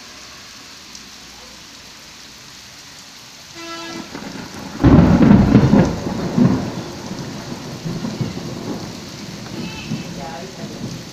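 Steady rain, then a sudden clap of thunder about five seconds in that rumbles and fades away over the next few seconds while the rain keeps falling.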